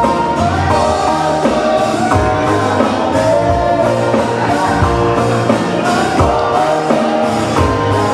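Live Hawaiian band music: a melody line that glides up and down in pitch over guitar chords and a steady bass.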